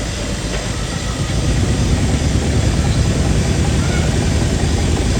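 Old air compressor running steadily under load, a loud constant low rumble with a hiss spread across the range.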